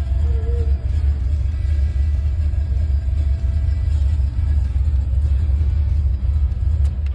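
Chevrolet Camaro's engine running with a deep, steady low rumble, under faint background music. The sound cuts off abruptly at the end.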